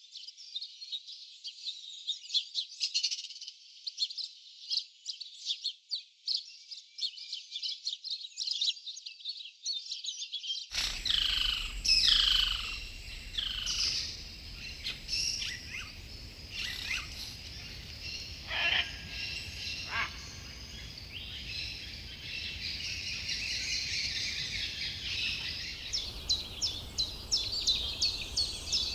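Rainforest birds calling and singing in rapid high chirps. About eleven seconds in, the sound changes to a few clear descending whistles over a steady hiss. Near the end, a fast run of short sharp chirps follows.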